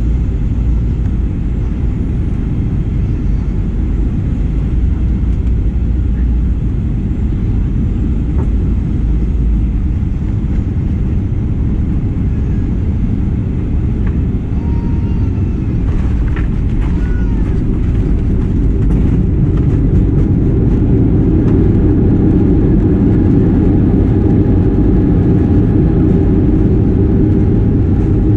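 Cabin noise aboard a Boeing 737-900ER: the steady rumble of its CFM56-7B engines and airflow. There are a few clicks about halfway through, and the rumble grows louder for the last several seconds.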